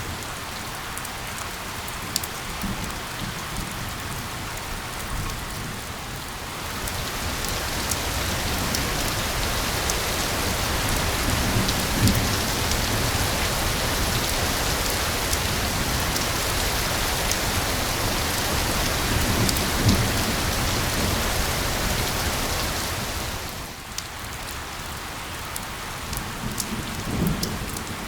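Steady rain falling on a surface, a dense hiss with scattered individual drop ticks. It grows heavier and louder about a quarter of the way in and eases back near the end, with a few brief low thumps in between.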